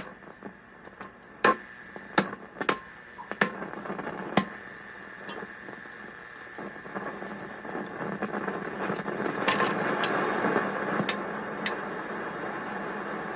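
Hallicrafters S-108 shortwave receiver giving static hiss with a faint steady whistle, broken about ten times by sharp crackles; the hiss swells about eight seconds in. The crackles are typical of a dirty band switch being worked.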